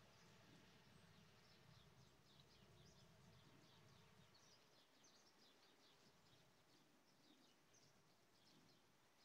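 Near silence with faint bird chirping: a steady run of short, high chirps over a faint low background hum.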